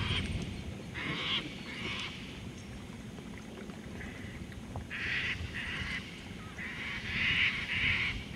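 Harsh bird calls, about seven short ones at uneven intervals and clustered toward the end, over a low steady rumble.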